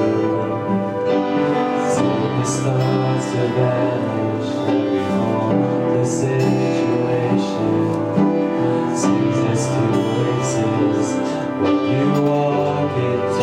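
Slow worship music from a live church band, with sustained chords carrying through.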